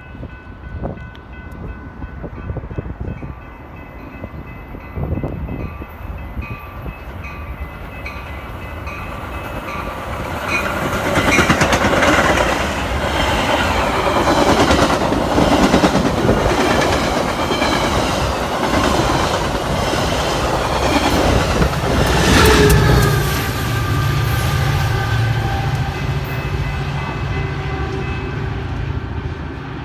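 Metra bilevel commuter train running through a station at speed without stopping. Its wheels clatter and rush loudly past over about ten seconds, with a horn, after a repeated ringing as it approaches. Near the end a steady low hum takes over.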